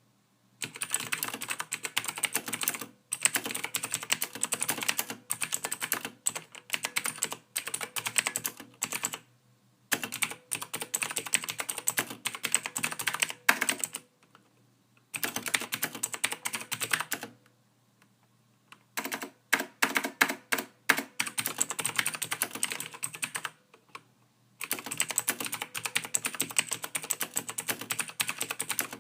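Typing on a computer keyboard: fast runs of keystrokes lasting a few seconds each, broken by short pauses of about a second.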